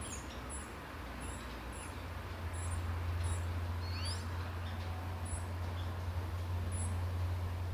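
Small songbirds giving short, very high double chirps over and over, about two a second, with one rising call near the middle. Under them runs a steady low rumble, the loudest sound, which grows louder a few seconds in.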